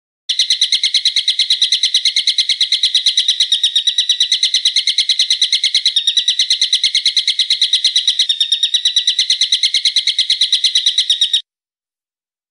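A bird's rapid, even trill of sharp high notes, about seven a second, running for some eleven seconds and then cutting off abruptly, as a recorded call played for songbirds to learn from.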